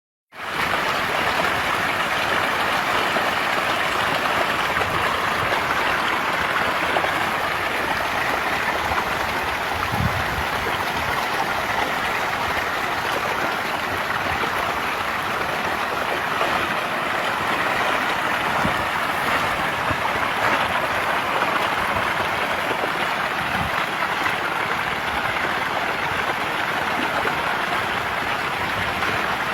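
Steady splashing and churning of water from a dense mass of fish feeding at the surface, with a few soft low thumps.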